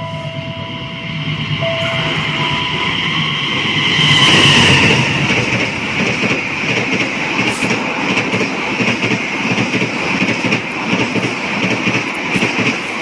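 Diesel-electric locomotive CC 206 hauling an express passenger train through the station at speed. It is loudest as the locomotive goes by about four seconds in, then the coaches rush past with a rhythmic clatter of their wheels on the rails.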